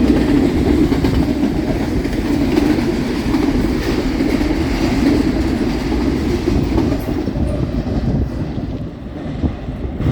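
A train passing close by: a loud, steady rumble of wheels on rail with clickety-clack over the rail joints, easing off near the end as the train clears.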